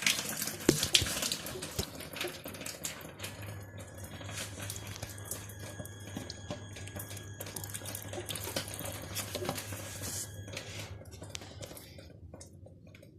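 Engine coolant trickling and spattering out as the thermostat housing is worked off the water pump, with scattered light clicks and knocks of metal parts and tools.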